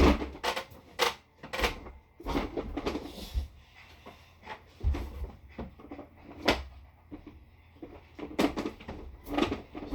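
Irregular knocks, clicks and thuds of toys being handled as a toy figure is pushed into a toy car's trunk.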